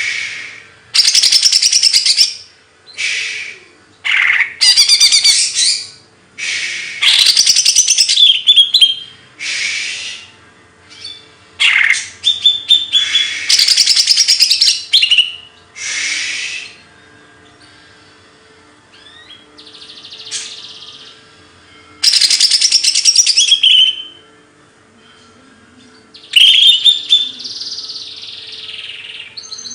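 Songbird singing: loud bursts of rapid, high chirps and trills, each one to two seconds long, with short pauses between them and a quieter lull about halfway through.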